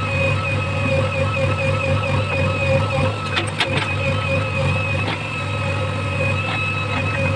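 Heavy machine's diesel engine running steadily, with a steady high whine over it and a few sharp clicks about three and a half seconds in.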